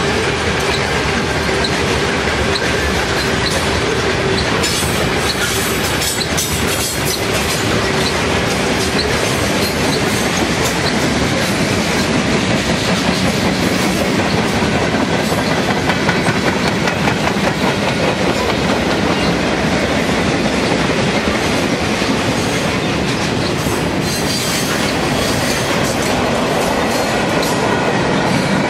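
Freight cars rolling past close by: a steady rumble of steel wheels with a clickety-clack over the rail joints, and a thin steady wheel squeal through roughly the first third.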